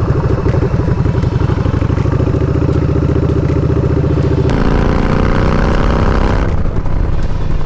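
Yamaha Bolt's air-cooled V-twin engine running with an even, pulsing beat, then about four and a half seconds in the bike pulls away and the engine pitch climbs as it accelerates, with more rushing noise near the end.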